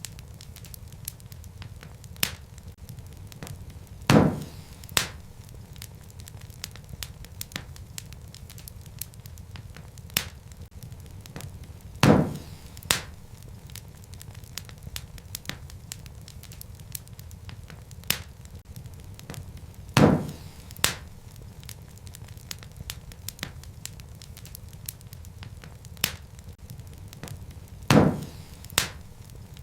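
Wood fire crackling in a fireplace: a steady low rumble of burning with many small sharp crackles. A loud pop comes about every eight seconds, each followed by a smaller pop under a second later, a pattern that repeats evenly like a loop.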